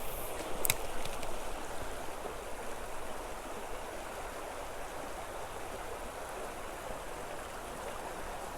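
Creek water running steadily over a riffle, an even rushing sound, with a couple of sharp clicks just under a second in.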